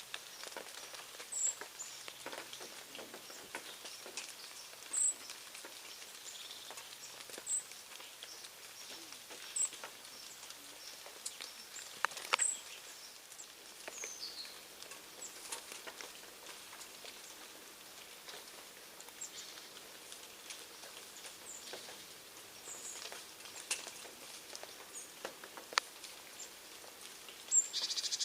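Small birds at a feeding spot: scattered pecking and hopping taps, with brief, high-pitched chirps every couple of seconds.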